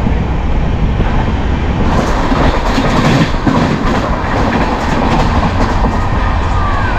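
Pallavan Superfast Express running at speed, heard from inside a coach: a steady rumble of wheels on the rails, with a run of clacking from about two seconds in.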